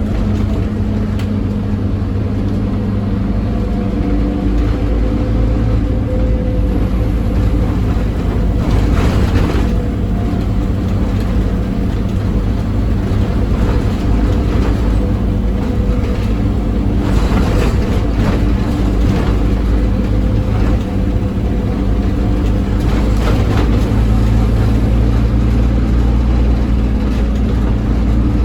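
Scania OmniCity double-decker bus's diesel engine running hard under full throttle, a loud steady drone. A few brief rushes of higher-pitched noise come over it.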